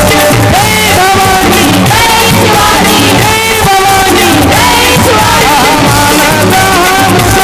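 A male kirtan singer singing a Marathi devotional song in a high, strong voice, his melody gliding up and down over steady musical accompaniment.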